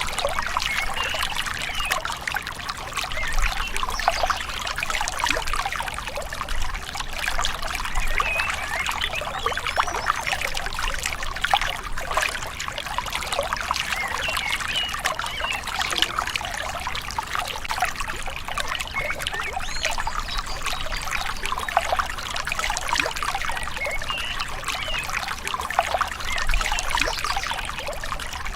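Small river flowing, water trickling and gurgling steadily.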